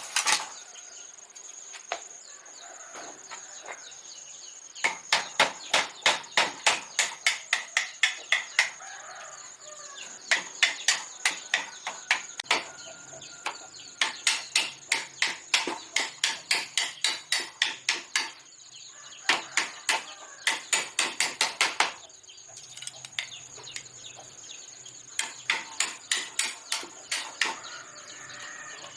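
Quick, evenly spaced chopping strikes, about four a second, in runs of a few seconds with short pauses between them.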